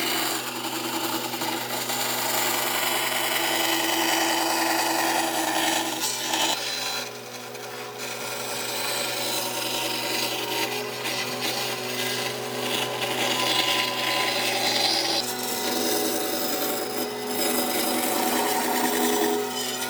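A power tool working wood: rough abrasive noise over a steady motor hum, easing off briefly about seven seconds in before carrying on.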